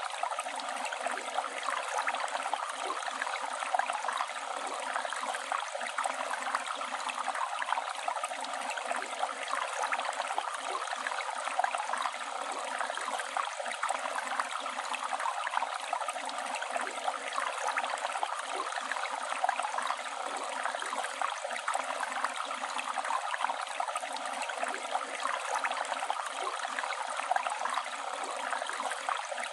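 Flowing river water running steadily, a continuous rush with fine bubbling and gurgling.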